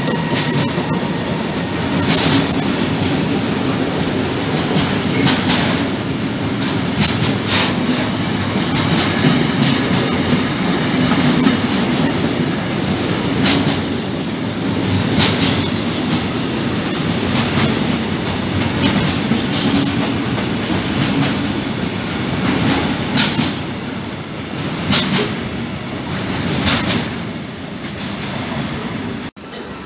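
Intermodal freight train's flat wagons, loaded with semi-trailers and containers, rolling past with a steady rumble of steel wheels on rail and sharp clacks every second or two as wheels cross rail joints.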